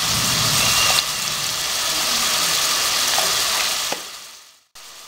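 Chopped onion, tomato and garlic frying in oil in a pan, a steady sizzle. It fades out to silence about four and a half seconds in and comes back faintly just before the end.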